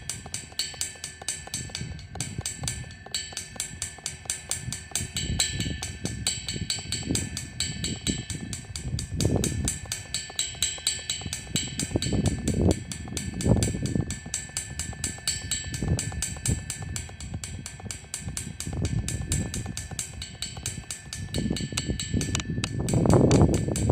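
Drum kit being played: fast, steady cymbal strokes over repeated low drum hits, growing loudest near the end.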